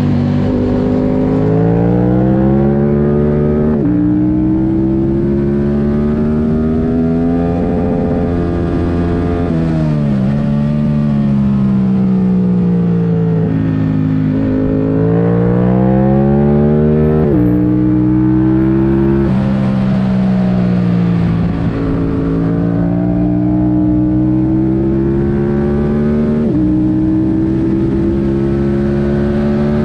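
2022 Yamaha R7's 689 cc parallel-twin, airbox removed and breathing through a Mivv Delta Race exhaust, being ridden hard on a track. The engine note climbs under acceleration and drops suddenly at each upshift. It falls away as the bike slows for corners and jumps up on downshifts.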